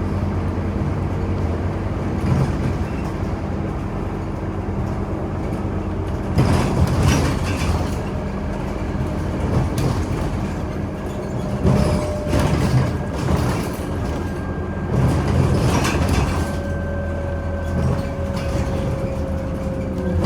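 Scania Omnicity bus on the move: a steady engine hum with rattles and clatter from the body now and then. A faint whine comes in near the end and falls slightly in pitch.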